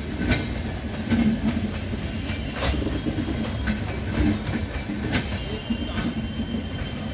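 Rajdhani Express passenger coaches rolling slowly past: a steady low rumble with irregular sharp clacks as the wheels pass over rail joints. A faint thin squeal comes in near the end.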